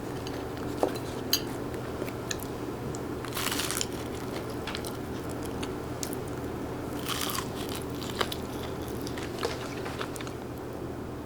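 Crunchy food being bitten and chewed, with two short, loud crunches and a few light clicks, over a steady low hum.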